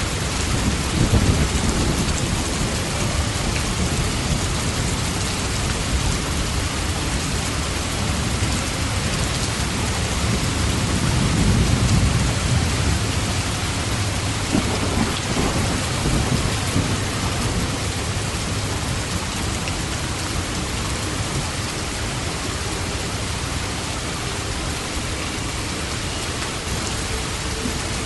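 Steady heavy rain, with low rolling thunder swelling about a second in and again around twelve seconds in.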